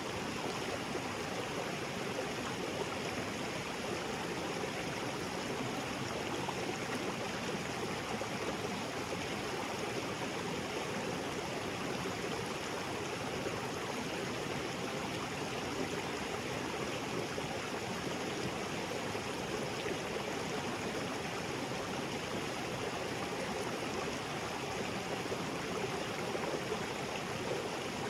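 Small waterfall spilling into a rocky creek, a steady even rush of falling and flowing water.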